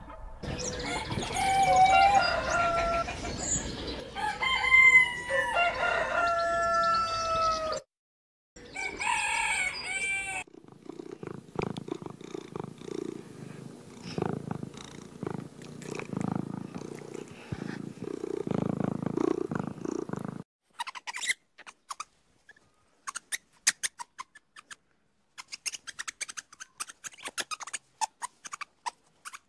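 A string of different animal sounds. First come several overlapping pitched calls for about eight seconds. Then a low, rough, steady sound runs for about ten seconds, and near the end comes a run of sharp clicks.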